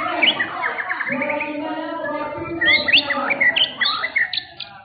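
Several white-rumped shamas (murai batu) singing over one another: quick chirps, whistled up-and-down sweeps and rapid trills. A steady low hum runs underneath.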